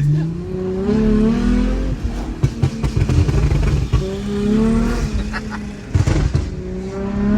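Toyota Mark X's swapped 3.5-litre 2GR-FSE V6 through a stainless-steel valved exhaust, accelerating hard: the pitch rises, drops back and rises again about three times as it goes up through the gears, with sharp cracks between the pulls.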